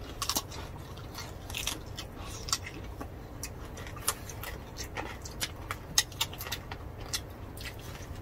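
Close-miked chewing and biting of roast pork: irregular sharp crackles and mouth clicks, a few a second.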